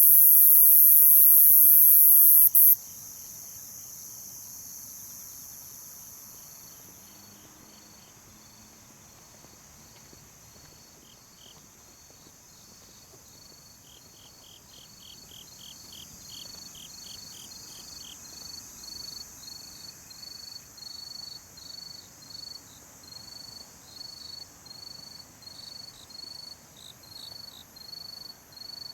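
Night insects chirping. A loud, steady high-pitched shrill cuts off suddenly about three seconds in, leaving quieter crickets chirping in quick trains and a regular chirp, about two a second, that grows louder toward the end.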